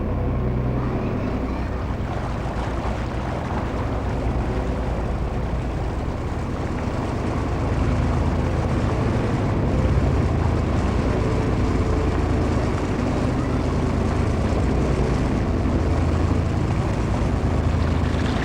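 Narrowboat engine running with a steady low chug.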